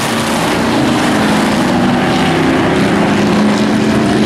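Engines of dirt-track race trucks running during a heat, a loud steady drone.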